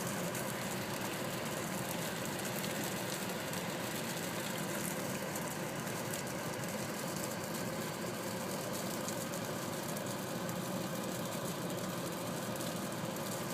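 Steady hum of a camera drone's electric motors and propellers in flight, made of several constant tones.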